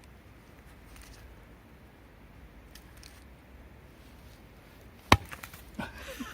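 Faint steady background, then one sharp, loud knock about five seconds in, followed by a few lighter clicks.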